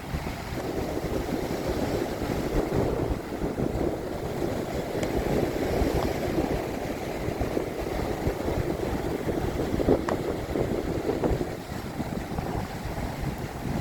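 Strong wind buffeting the microphone over the continuous rush of storm surf.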